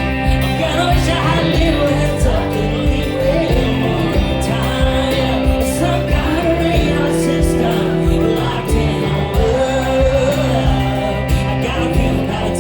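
A country-pop song played live, with a man singing over instrumental accompaniment.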